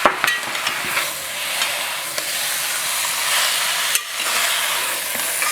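Chicken pieces sizzling in hot olive oil in a pan, a steady hiss, with a few clicks of a utensil stirring against the pan near the start.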